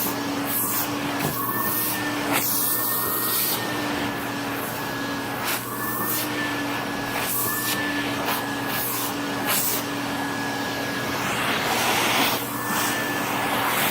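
Vacuum cleaner running steadily with its tube covered, being passed over a cat's fur: a constant motor whine with a slightly wavering pitch, and short hissy surges of airflow every second or so.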